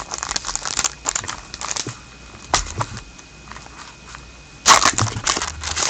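Trading card pack wrapper crinkling and cards being handled: crackly rustling at first, a quieter stretch with a single click, then a loud burst of crinkling near the end as the next pack is opened.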